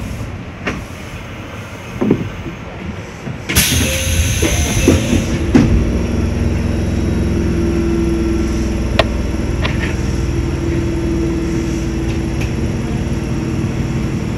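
Small electric train at a standstill rumbling quietly, then a sudden loud hiss of air about three and a half seconds in. A couple of clunks follow, then a steady rumble and hum of the train running, with a few sharp clicks from the wheels.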